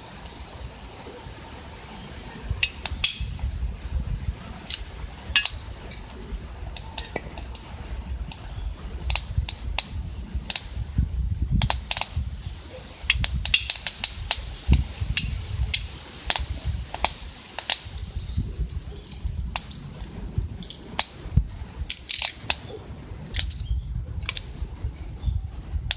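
Wood fire burning in a camp stove, crackling with many sharp, irregular pops over a low rumble.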